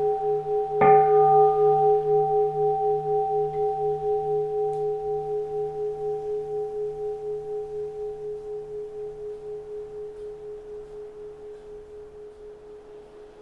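A keisu, the bowl-shaped Buddhist bell of Zen temples, struck once about a second in, its deep ring pulsing slowly as it fades away over the following seconds.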